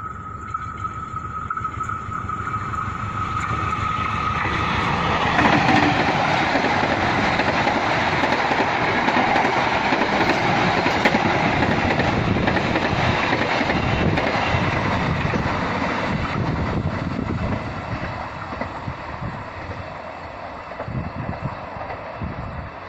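Passenger train passing by: the rumble and rattle of its wheels on the rails builds about five seconds in, stays loud for about ten seconds, then fades as the last carriages go by. A steady high tone runs through the first five seconds.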